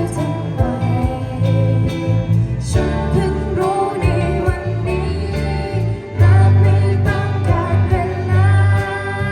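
A school band performing a song, with singing over heavy bass and a steady drum beat. The music gets louder about six seconds in.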